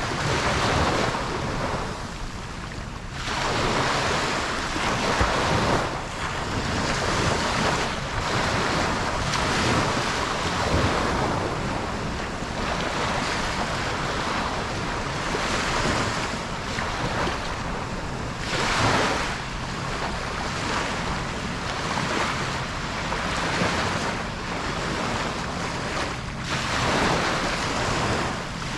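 Ocean waves breaking and washing up on a beach, the surf swelling and falling back every few seconds, with some wind on the microphone.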